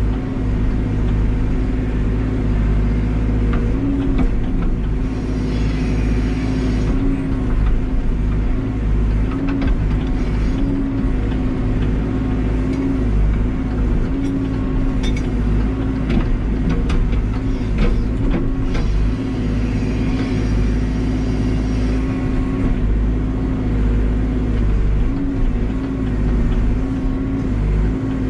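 Backhoe's diesel engine running steadily, its pitch rising briefly now and then, with a few sharp knocks about halfway through.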